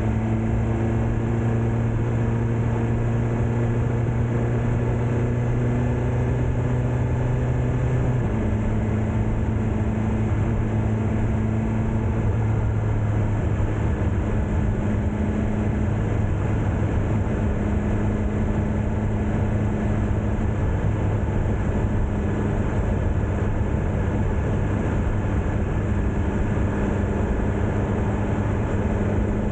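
BMW S1000R inline-four motorcycle engine running steadily at a cruise. Its note steps down slightly about eight seconds in.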